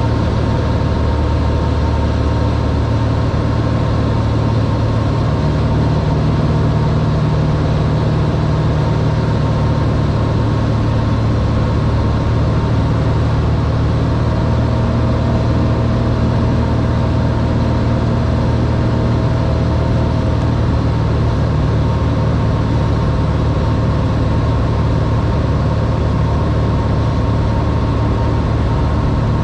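Cessna 182R's six-cylinder Continental O-470 piston engine and propeller running in a steady drone, heard from inside the cockpit.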